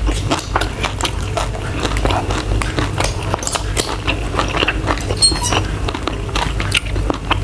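Close-miked chewing and wet mouth sounds of a person eating stir-fried shrimp and shellfish with rice, with many small irregular clicks from a metal spoon and fork working through the food, over a steady low hum.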